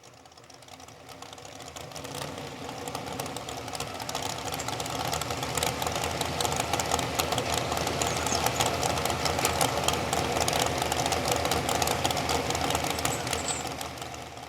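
Modified four-wheel-drive pulling truck's engine running flat out with a fast, rattling beat as it drags the weight-transfer sled. It grows louder over the first few seconds, holds steady, then drops away at the very end.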